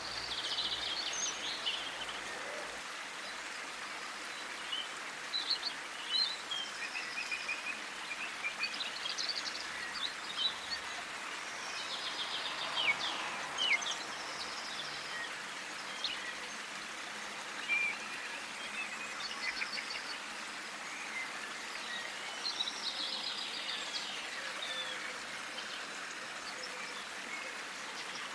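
Garden birds chirping and calling, with many short high chirps and trills scattered through, over a steady outdoor hiss.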